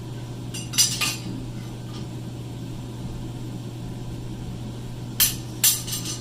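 Steel pieces clinking against each other, two quick pairs of sharp metallic clinks about a second in and near the end, over a steady low hum.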